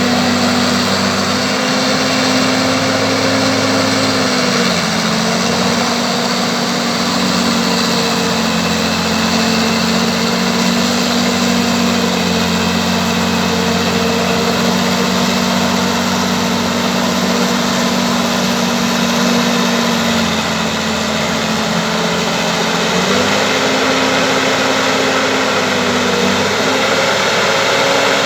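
Bulldozer's diesel engine running steadily, its note dropping a little about four seconds in and picking up again about five seconds before the end.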